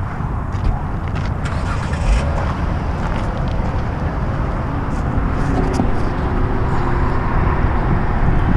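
Redcat Racing RC rock crawler's electric motor and gears whining as it crawls over rocks, with scattered clicks and knocks from the tyres and chassis on the rock, under a steady low rumble.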